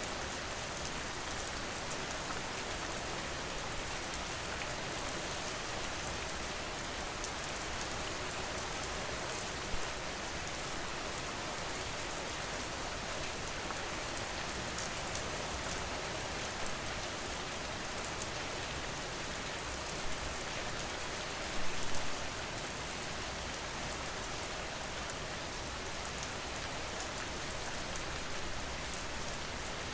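Steady rain falling, an even hiss and patter. A few brief louder taps stand out, one about ten seconds in and a short cluster a little past twenty seconds.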